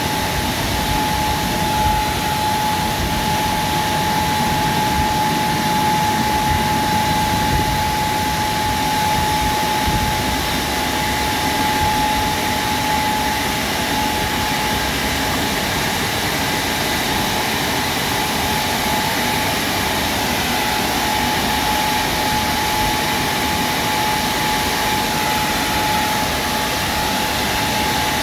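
WashTec SoftCare Pro Classic rollover car wash machine running: a steady, even rush of noise with a constant high whine that doesn't change.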